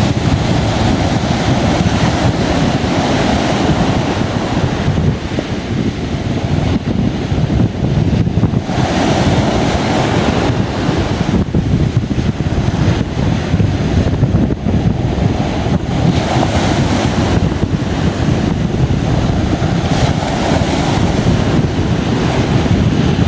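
Waves breaking and washing on a beach, with wind buffeting the microphone and a steady low rumble.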